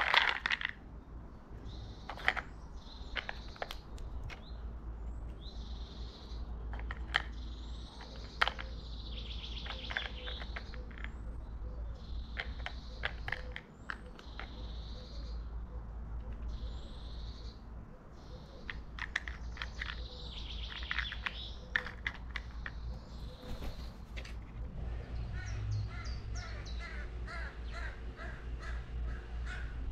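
Small birds chirping outdoors: short high calls repeat every second or two, mixed with scattered sharp taps. Near the end a faster twittering takes over.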